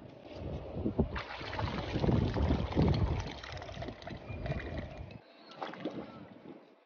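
Water sloshing and splashing, loudest about two to three seconds in and easing off about five seconds in, with a few knocks.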